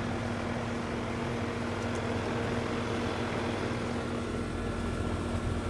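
Trane XB13 4-ton central air-conditioner condenser running: steady fan rush with a constant hum from the compressor, which is thought to be a Climatuff reciprocating compressor.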